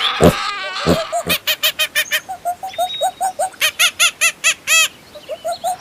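A bird calling in quick runs of short, repeated calls, several a second, with a louder, longer call near the end.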